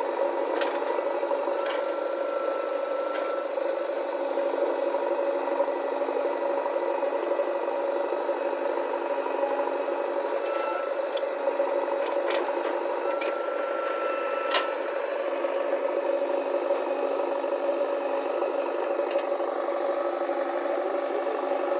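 Diesel engine of heavy earth-moving machinery running steadily at work, with a few sharp clanks and short high tones over it.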